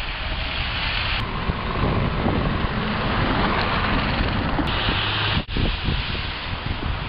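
Steady rushing noise of blizzard wind and passing street traffic, with a short break about five and a half seconds in.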